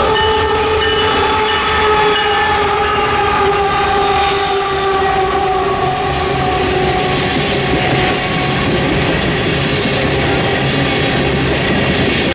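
Diesel locomotive air horn held in a long chord as a train passes, its pitch slowly falling, over the steady rumble of the train on the rails.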